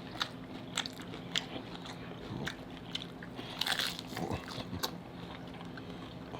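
Hard taco shells crunching as they are bitten and chewed close to the microphone: a string of sharp, irregular crunches, several seconds long.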